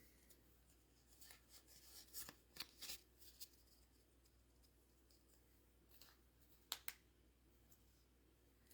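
Near silence with a scatter of faint clicks and rustles from handling a foil trading-card booster pack and its cards, most of them in the first few seconds and a pair near the end.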